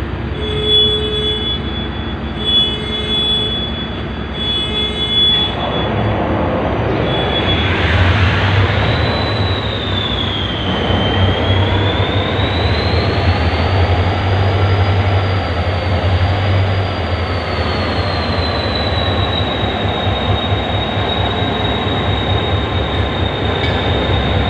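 Three short beeps about two seconds apart, then the HGMU-30 diesel locomotive's engine starting about five seconds in and running on, with a high whine that wavers in pitch and then holds steady.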